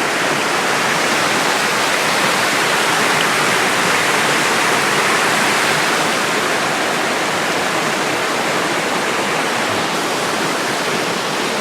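Rain-swollen river rushing over falls and through a rocky gorge: a loud, steady roar of white water, running high after a storm.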